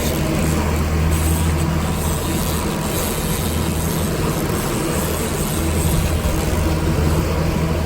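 250-horsepower outboard motor running steadily with a constant low hum, under an even rush of water and air noise.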